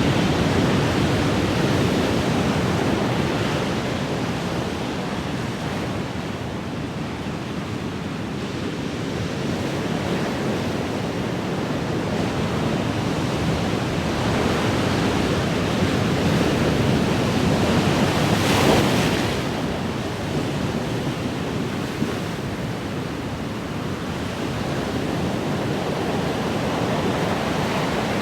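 Ocean waves washing onto the shore in a steady rushing hiss that slowly swells and ebbs, with one louder wave breaking about two-thirds of the way through.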